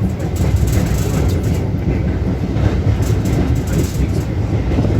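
Railway carriage running along the track: a steady rumble of wheels on rails.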